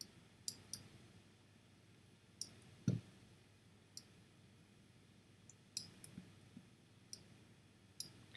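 Computer mouse clicking, about a dozen short, irregular clicks over a quiet room, with one louder click and low knock about three seconds in.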